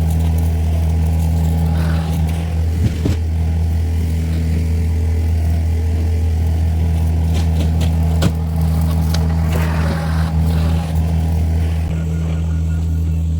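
John Deere 50P compact excavator's diesel engine running steadily under load while its excavator-mounted brush mower cuts brush. A couple of sharp knocks come through, about three seconds in and again about eight seconds in.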